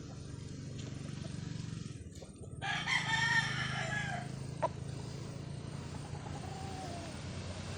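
A rooster crowing once, a long call starting about three seconds in, over a steady low hum. A sharp click follows, then a fainter call near the end.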